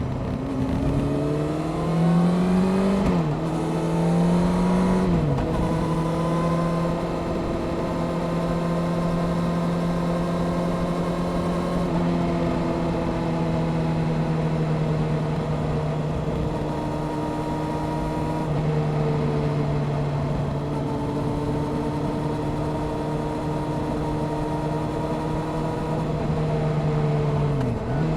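Honda CBR600F Sport's inline-four engine, fitted with a Delkevic aftermarket exhaust, pulling hard through two upshifts in the first five seconds, its pitch climbing then dropping at each change. It then holds a steady cruise under a constant rush of riding wind, with a brief dip in revs near the end.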